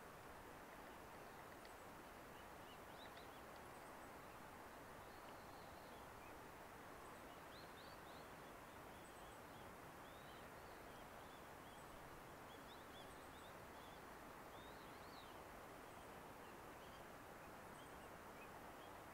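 Near silence: faint steady outdoor background noise with scattered, distant high bird chirps.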